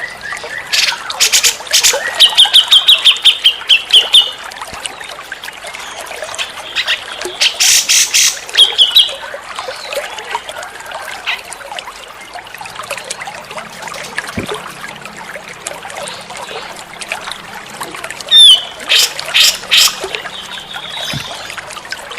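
Cucak jenggot (grey-cheeked bulbul) calling in bursts: loud, sharp high notes and quick trills, over a steady trickle of running water.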